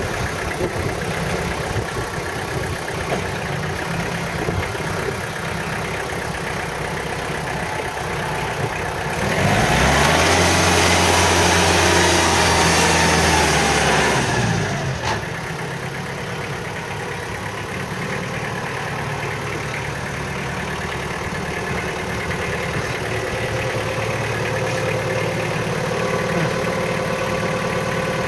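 36 hp Ford Long Landtrac compact tractor engine idling steadily, revved up about a third of the way in, held for several seconds, then let back down to idle.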